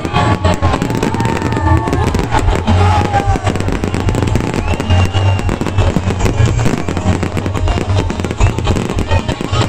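Aerial fireworks going off in a rapid, continuous stream of bangs and crackles, mixed with loud music that has a strong, steady bass.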